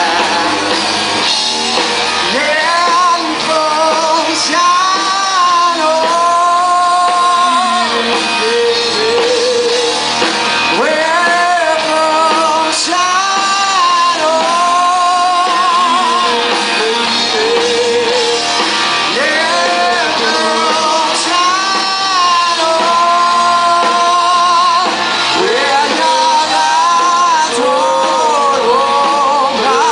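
Live rock band playing loudly through an instrumental break, with a lead electric guitar carrying sustained, bending notes with vibrato over the drums and rhythm guitar.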